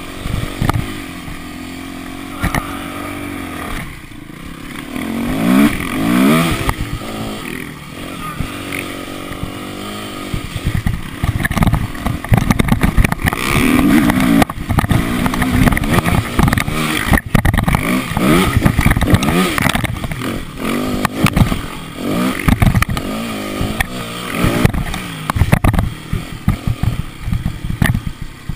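Motocross bike engine running steadily, then revving up and down and running hard under throttle, with many irregular knocks and clatter through the second half.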